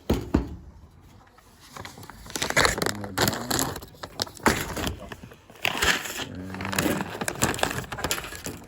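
A granola package being torn open and crinkled by hand, in several loud crackling bursts.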